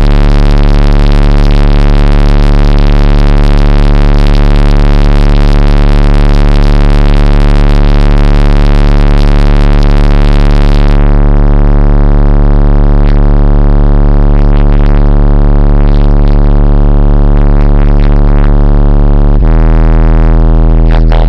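Car-audio subwoofers playing a single steady low bass test tone at very high volume for a TermLab SPL reading, so loud that it comes through distorted and buzzy, with a long stack of overtones. The tone shifts slightly in pitch near the end.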